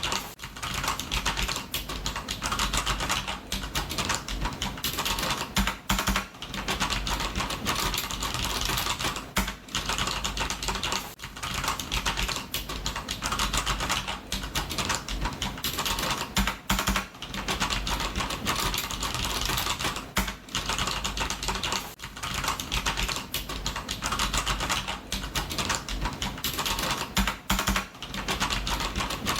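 Computer keyboard typing: a fast, continuous run of keystroke clicks with brief pauses every few seconds.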